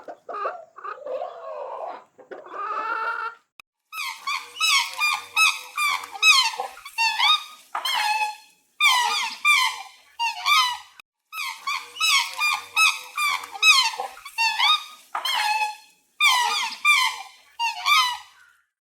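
A few lower calls, then from about four seconds in, rapid high-pitched animal squeaks in quick bursts with short pauses between them.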